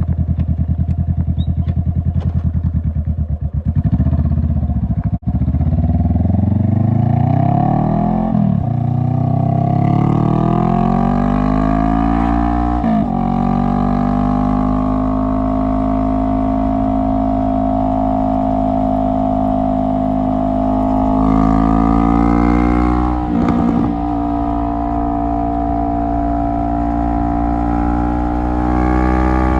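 A 2017 Honda CBR500R's parallel-twin engine through a straight-pipe exhaust, heard onboard while riding. It starts at low, pulsing revs, then climbs in pitch through two upshifts. It holds steady cruising revs, rises briefly, and changes gear again about three quarters of the way through.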